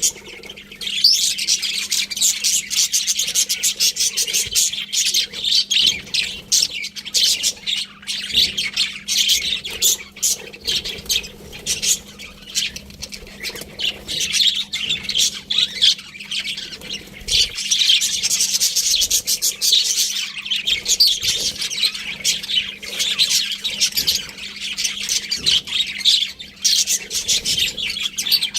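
A flock of budgerigars chattering continuously, a dense stream of rapid high chirps and squawks.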